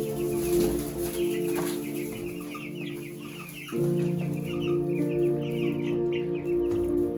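Chickens clucking over slow music with sustained low chords; the chords thin out briefly and swell back in a little past halfway.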